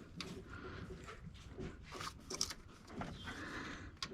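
A person's strained breathing and grunting while forcing a tool on a stubborn part, with scattered light clicks and a sharp click near the end.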